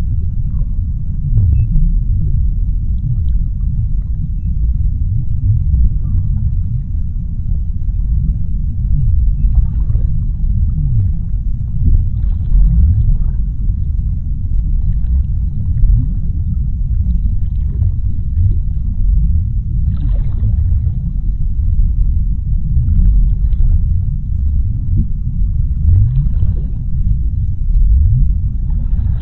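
Underwater ocean ambience: a continuous deep rumble with slow low sweeps, and faint higher swishes every few seconds.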